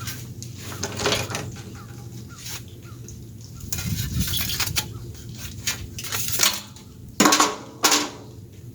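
Light metallic clinks and rattles from small metal parts and hardware being handled, with two louder clanks near the end.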